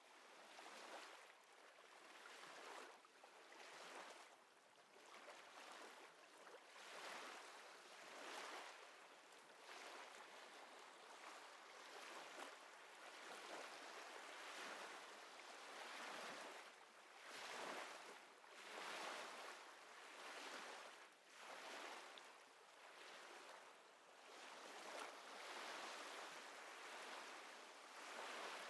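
Small waves lapping at the water's edge, a faint wash of water that swells and falls every second or two.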